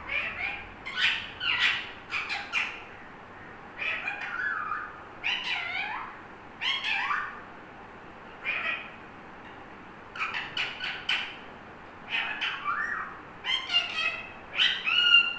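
A pet parrot calling in short bursts of gliding, rising and falling notes, in several groups with pauses of a second or two between them; the loudest comes at the very end.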